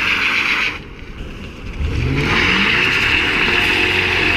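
2010 Ford Crown Victoria Police Interceptor's 4.6-litre V8 accelerating, now answering the throttle after a throttle body swap. The engine eases off about a second in, then its pitch climbs steadily from about two seconds in and holds high, with a loud rushing hiss over it.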